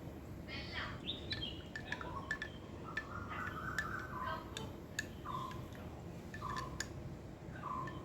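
Birds chirping in short, repeated calls, about one a second in the second half, over a steady low background noise, with a few sharp clicks.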